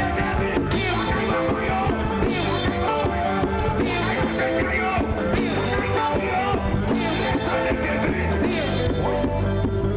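Church band playing an upbeat song, with drums and cymbals keeping a steady beat.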